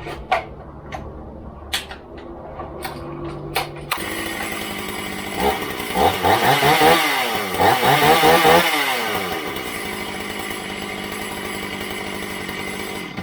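Shindaiwa 488 two-stroke chainsaw running after being rebuilt. It gets much louder about four seconds in, is revved up and down several times, then settles to a steady run before cutting off suddenly. It runs well: the rebuilt saw is working.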